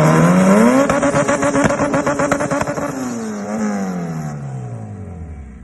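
Car engine revving: it climbs quickly, holds at high revs with a rapid buzzing pulse for about two seconds, then drops slowly back toward idle.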